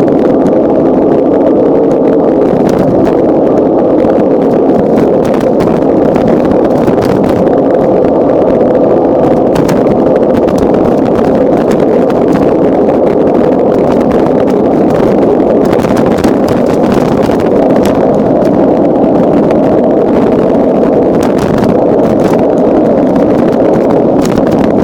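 Steady, loud rush of wind and rolling noise on a camera carried on a moving bicycle, with scattered small clicks and knocks from bumps in the road.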